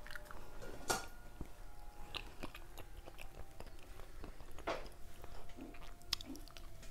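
Chewing and biting into a crunchy cookie close to a clip-on microphone, with two sharper crunches: one about a second in and one just before five seconds.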